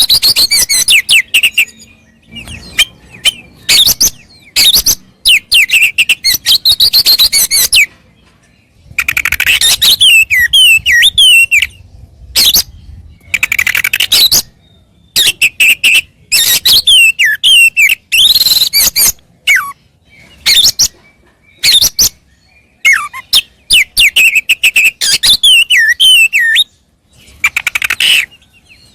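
Oriental magpie-robin (kacer) singing loud, varied song phrases of sliding whistles and rapid chattering notes, one burst after another with short pauses between, in full display song.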